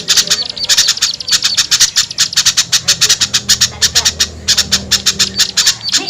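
Agitated, harsh chattering of small birds, rapid sharp notes about eight to ten a second in runs with short breaks: a bird-trapping lure call made of noisy small-bird alarm chatter, meant to draw small birds down.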